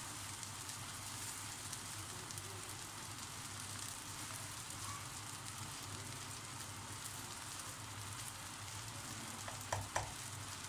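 Fried rice sizzling in a frying pan: a steady hiss full of small crackling pops. Two sharp knocks come near the end.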